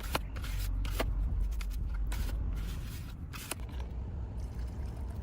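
A few sharp clicks and knocks, about four, over a low steady rumble, with some rustling between them.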